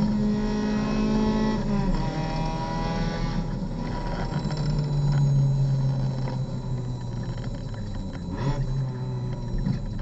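A Mazda MX-5 race car's four-cylinder engine heard from inside the open cockpit. Its note drops in two steps and settles lower as the car slows hard for a corner, over constant road and wind noise.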